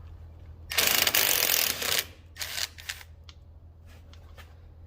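A cordless Milwaukee impact tool hammers a bolt loose in a rapid rattling burst lasting about a second, followed by a few light clicks.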